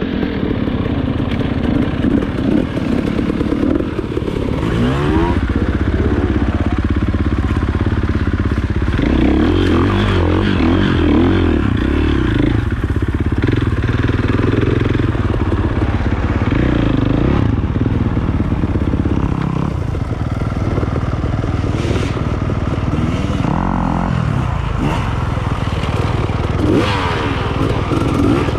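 Off-road motorcycle engine running under load on a trail, its revs rising and falling repeatedly with throttle and gear changes, with occasional clatter.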